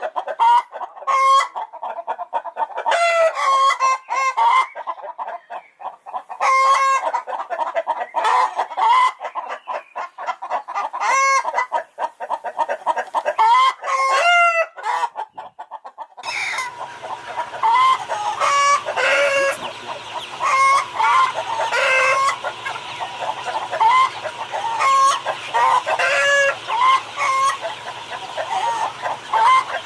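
Chickens clucking and calling over and over, in short pitched calls. About halfway through the sound changes abruptly to another flock with a steady low hum behind the calls.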